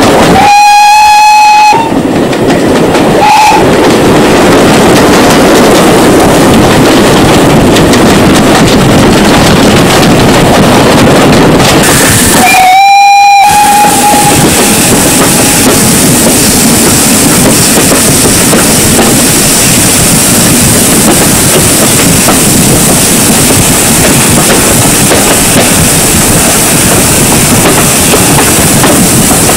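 Steam locomotive whistle: a long blast, a short toot a couple of seconds later, then another long blast about twelve seconds in, over the steady loud noise of a train running on the rails.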